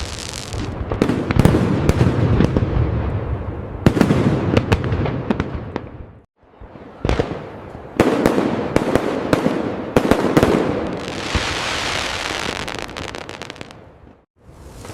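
Aerial fireworks bursting: a run of sharp bangs, each trailing off in a deep rumble, with crackling shells fizzing near the end. The sound cuts out briefly twice.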